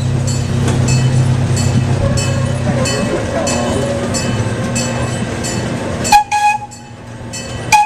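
Small amusement-park ride train running with a steady low hum and regular light clatter. About six seconds in the running noise drops away, and the train's horn gives three short toots, the loudest sounds here.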